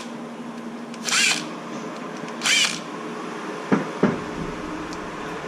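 Small power screwdriver whirring in two short bursts, backing screws out of an RC truck's differential cover, followed by two sharp knocks.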